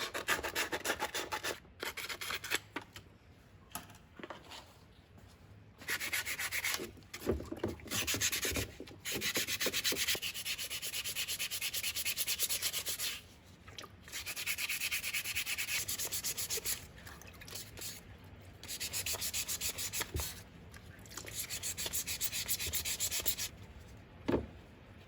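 Rapid back-and-forth hand rubbing of an abrasive over a hard surface, in bursts of a few seconds separated by short pauses.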